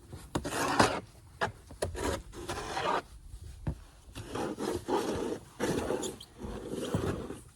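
Snow shovel scraping and pushing through heavy, wet snow, about five rasping strokes with short gaps between them.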